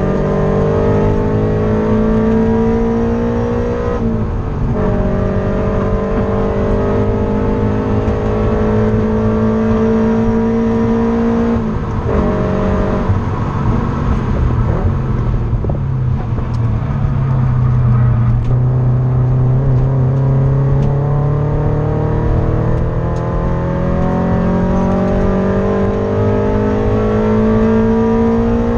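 Subaru BRZ's flat-four engine under hard acceleration, heard from inside the cabin: the revs climb, drop at an upshift about four seconds in, climb again until about twelve seconds, fall and run lower for several seconds, then climb steadily again to near the end.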